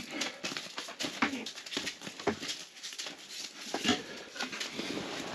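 Irregular knocks, rustling and splashing as a hooked rainbow trout is pulled up through an ice-fishing hole and landed.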